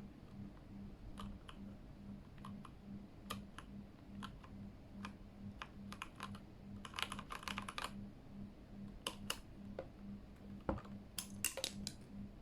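Keys of a Keychron K8 mechanical keyboard being typed on: scattered single keystrokes, with a quick run of typing a little past halfway and another near the end.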